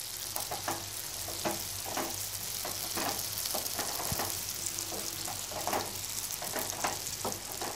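Shucked oysters, sliced onion and masala frying in oil in a nonstick kadhai: a steady sizzle, with the irregular scrape of a spatula stirring them through the pan.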